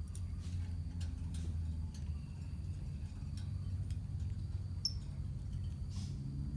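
Lovebirds in a colony giving sparse short squeaks and clicks, with one brief high chirp about five seconds in, over a louder low steady hum.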